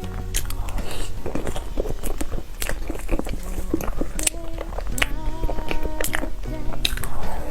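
Biting and chewing into a bear-shaped cake: many short, sharp mouth clicks and smacks. Background music with held notes plays underneath.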